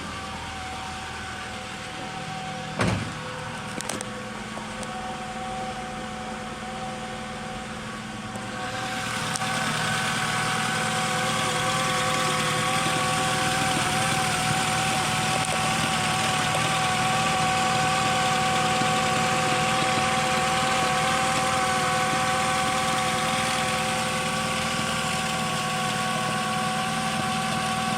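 VW Transporter engine idling steadily at an even speed. A sharp knock comes about three seconds in and a smaller one about a second later; about nine seconds in the engine sound gets louder and brighter without any change in engine speed.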